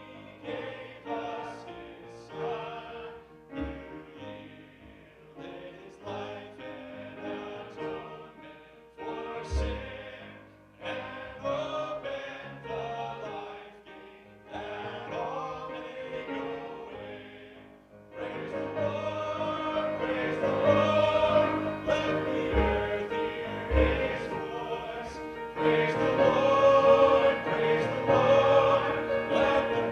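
A vocal ensemble singing together, getting louder and fuller about eighteen seconds in.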